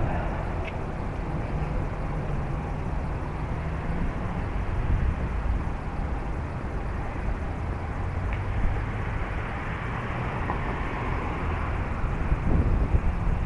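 Strong wind rumbling and buffeting on the microphone, with a faint low steady hum underneath.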